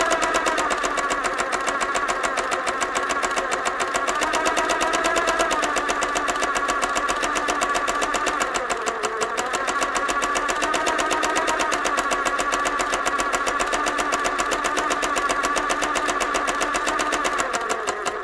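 An engine running steadily with a rapid, even pulse, its pitch wavering slightly.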